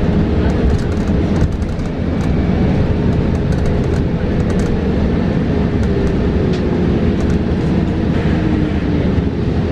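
Inside a moving New Flyer XE40 battery-electric bus: steady road and tyre noise with light rattles and clicks, over the electric drive's whine, which slides lower in pitch over the last few seconds.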